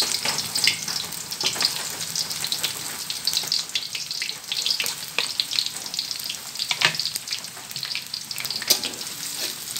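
Freshly added sliced shallots and garlic sizzling in hot cooking oil in a wok, a steady hiss full of irregular crackles and pops as the moisture fries out.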